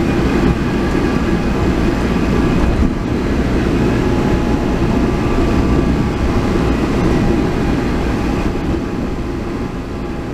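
Car driving, with steady low road and drivetrain noise and faint steady whines above it, from a transmission that makes an abnormal noise and has been dosed with molybdenum additive. The sound fades out near the end.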